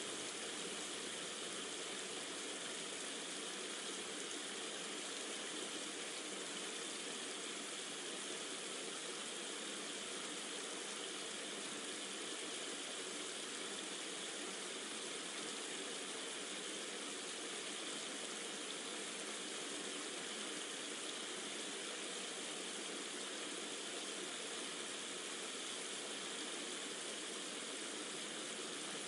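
Steady rushing water, an even hiss that holds unchanged, with no single drops or breaks standing out.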